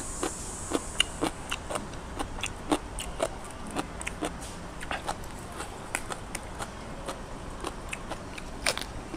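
Close-up chewing of crunchy food: irregular crisp crunches and mouth clicks, a few a second, over a faint steady low hum.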